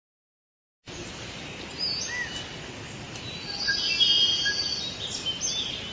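Birds chirping and whistling over a steady hiss of forest ambience, starting about a second in.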